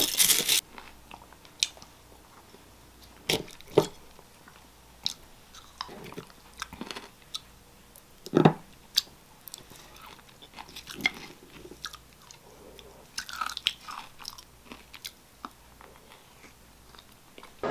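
Close-up eating sounds: crunchy chewing of Greek yogurt with a crunchy flake topping, with a wooden spoon scraping and clicking against the bowl. Scattered short crunches and clicks, a few louder ones, over a quiet room.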